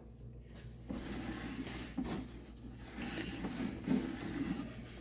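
A rag rubbing and wiping over a part of a Stihl BR600 backpack blower, in irregular scuffing strokes that start about a second in.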